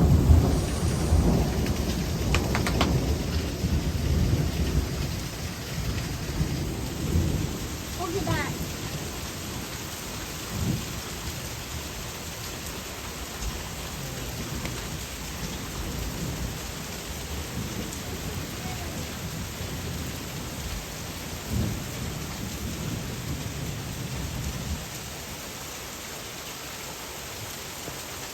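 Long roll of thunder over steady rain, loudest at the start and rumbling away over about twenty-five seconds, leaving only the hiss of the rain.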